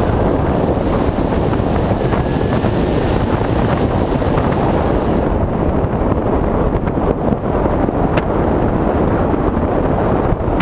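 Steady rush of wind and motor noise picked up by a camera riding on a radio-control plane in flight; the hiss turns a little duller after about five seconds.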